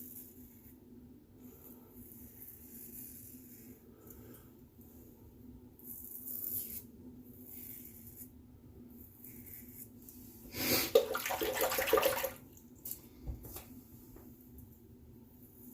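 Razorock Gamechanger .84 safety razor with a Polsilver blade scraping through lathered beard stubble in short strokes of about a second each. About ten seconds in comes a louder two-second rush of running tap water, as the razor is rinsed.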